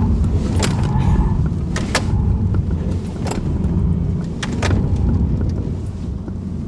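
Car running hard through a slalom at about 35 mph, heard from inside the cabin: a steady low rumble of engine and tyres on the road, with several sharp clicks and knocks scattered through it.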